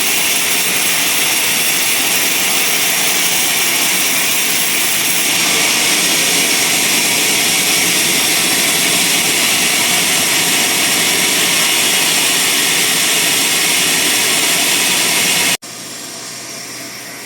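Bandsaw mill running with a loud, steady noise, which drops abruptly to a quieter steady sound near the end.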